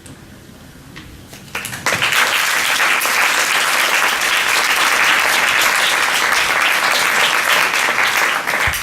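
Audience applause: a few scattered claps about a second in, then the whole audience clapping steadily and loudly.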